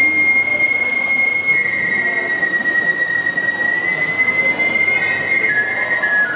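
Kagura flute (fue) holding one long high note that slides down in small steps, over a steady wash of kagura percussion.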